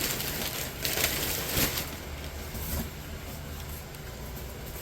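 Handling noise from unpacking: a few short rustles and knocks, about one and one and a half seconds in, over a steady low hum.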